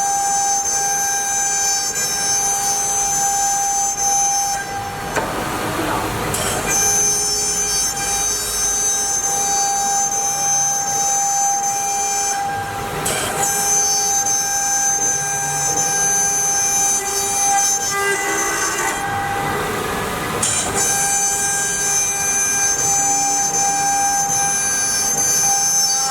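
CNC router's water-cooled spindle cutting MDF, a steady whine made of several held tones. The tone pattern breaks off briefly three times, about 5, 13 and 20 seconds in, then resumes.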